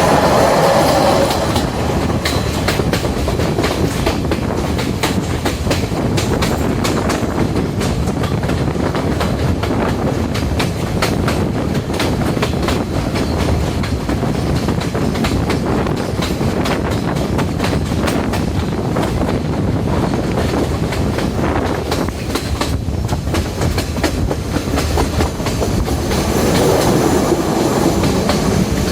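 Diesel multiple-unit express train running on the line, a steady rumble with the wheels clicking over the rail joints. The sound swells slightly near the start and again near the end.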